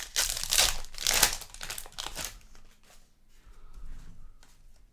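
Crinkling of a trading-card pack's foil wrapper being handled and torn open, loudest in the first two seconds, then fainter rustles and clicks of card handling.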